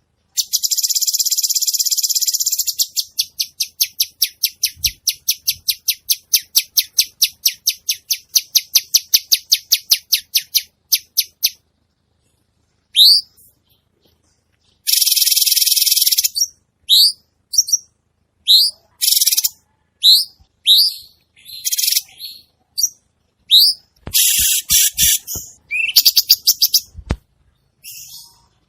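Cucak cungkok songbird singing loudly: a harsh buzzing rattle, then a long run of rapid chattering notes that thin out and fade, then a string of short, high whistled notes about once a second broken by another buzzy trill. A few low knocks come in near the end.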